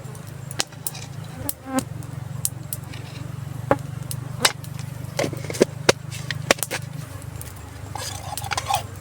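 Campfire crackling with scattered sharp pops and clicks over a steady low hum.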